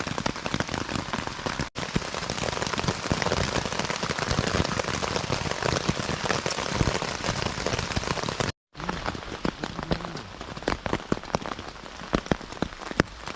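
Heavy rain drumming on a Naturehike Cloud Peak 2 tent's flysheet, heard from inside the tent. After a brief break about nine seconds in, it comes as a lighter patter of more separate drops.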